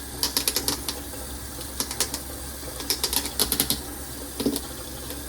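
Several quick runs of sharp clicks and taps, like small objects being handled, over a steady low hum.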